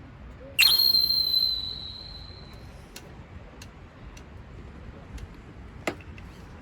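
A single sharp strike about half a second in with a high ringing tone that fades over about two seconds, like struck metal, followed by a few light clicks and a short knock near the end.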